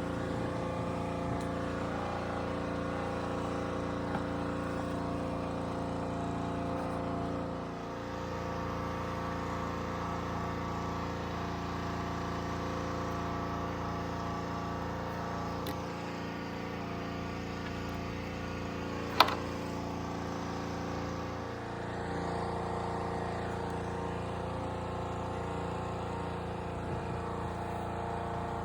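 An engine running steadily at idle, with a single sharp click about two-thirds of the way through.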